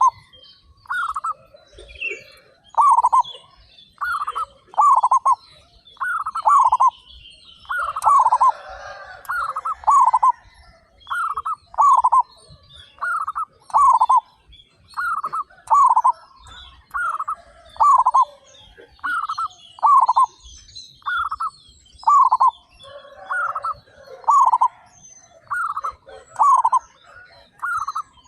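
Zebra doves (perkutut) cooing continuously: a long series of short, falling notes, often in pairs, repeated about once or twice a second. Faint high chirping of small birds runs underneath.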